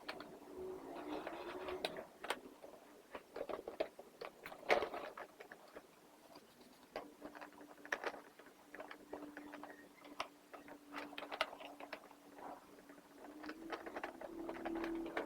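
Irregular light clicks and knocks of plastic vacuum-cleaner body parts being handled and wiped with a cloth. A faint steady hum comes in about halfway through.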